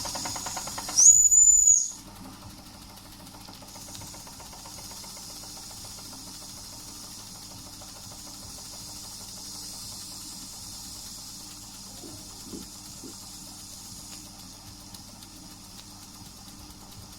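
Doll & Co 339/2 model steam engine's whistle blown once, a short high-pitched tone about a second in, followed by a steady faint steam hiss.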